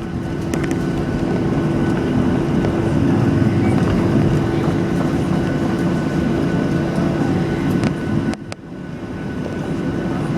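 Steady cabin noise inside a Boeing 737-800 on the ground: its CFM56 jet engines and air-conditioning running with a steady low hum and a faint higher whine. The level drops suddenly about eight and a half seconds in and then builds back up.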